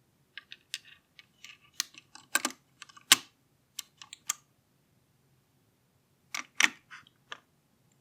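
Plastic model-kit parts being handled and fitted together: a run of small, sharp, irregular clicks and taps for about four seconds, a pause, then a few more clicks near the end.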